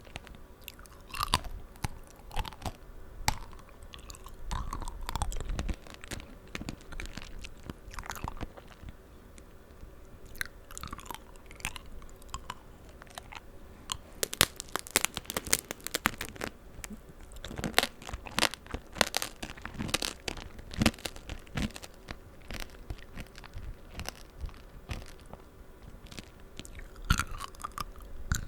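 Close-up eating of tanghulu: the hard sugar candy shell on strawberries and green grapes cracking and crunching between the teeth, with wet chewing of the juicy fruit. The cracks come in irregular runs, thickest around the middle of the stretch.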